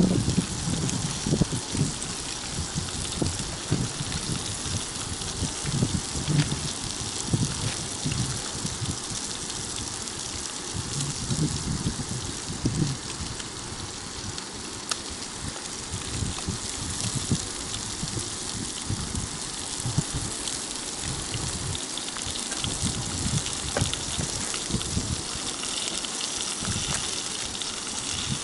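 Flour-dredged rotan (Amur sleeper) fish sizzling in hot oil in a frying pan: a steady, dense hiss and crackle. Uneven low rumbling sits under it, strongest in the first half.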